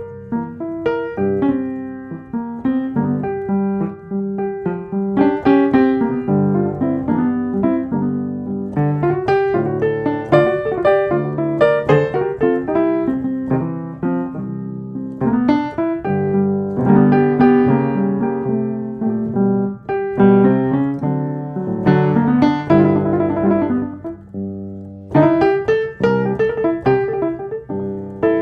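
Solo piano music, gentle and flowing, with struck notes and chords ringing over one another.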